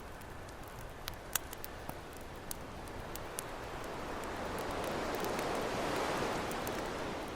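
Campfire crackling with scattered sharp pops, over ocean waves; a wave swells in from about halfway, peaks, and eases off near the end.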